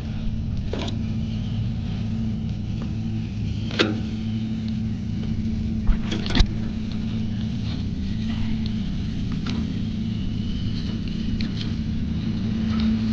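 Steady low motor hum, with a few sharp knocks and clatters of handling gear on top.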